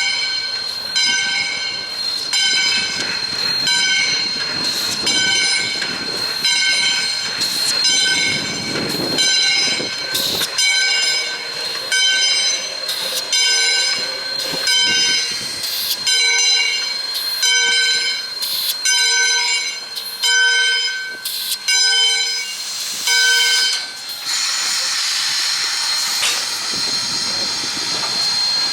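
Steam locomotive's bell ringing steadily, about one stroke a second. It stops about 24 seconds in, leaving a steady hiss of steam.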